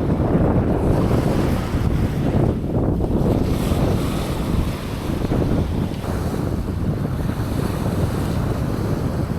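Wind buffeting the microphone in uneven gusts over the steady wash of surf breaking on the beach.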